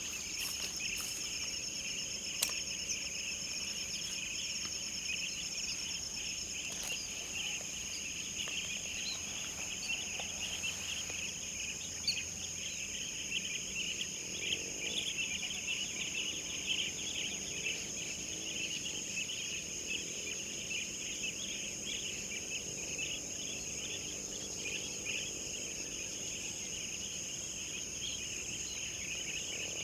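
Dense chorus of crickets and other insects trilling steadily in several high, continuous layers, with a few faint bird calls mixed in. A couple of short sharp ticks stand out, one a few seconds in and one near the middle.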